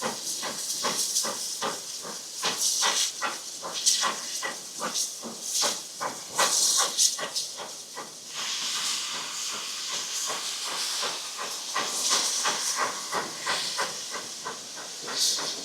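Narrow-gauge steam locomotive working: hissing steam cut by quick, even exhaust beats, about four a second, with the hiss growing thicker and steadier about halfway through.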